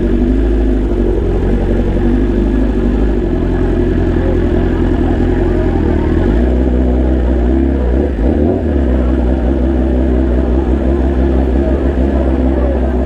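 BMW S1000RR's inline-four engine running steadily at low revs as the motorcycle creeps along, its note shifting a couple of times.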